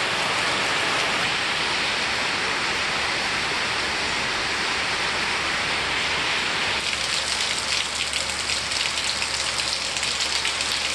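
Steady rain falling, a dense even hiss of rain on surfaces. About seven seconds in it turns to a sharper, crackling patter of close drops.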